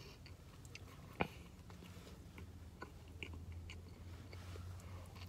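A person chewing a mouthful of steak sandwich, with faint soft mouth clicks and one sharper click about a second in, over a steady low hum.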